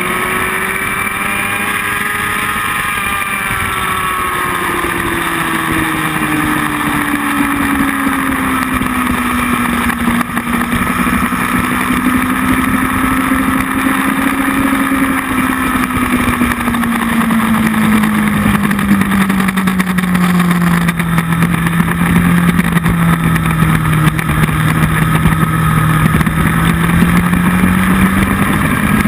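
Motorcycle engine running under steady load, heard onboard with a constant rush of wind noise. The engine note drifts slowly down over the first half, dips lowest a little past two-thirds of the way through, and starts to rise again near the end.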